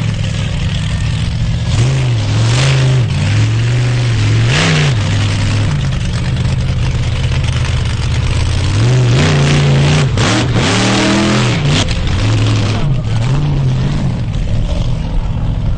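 Monster truck engine revving hard, its pitch rising and falling several times in two spells a few seconds apart, over a steady loud engine note.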